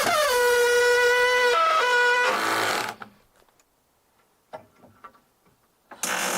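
A power tool's electric motor runs at a steady high pitch, dropping in pitch at the start as it takes load and stepping a few times. It stops about three seconds in, followed by a few faint taps, and a loud run starts again at the very end.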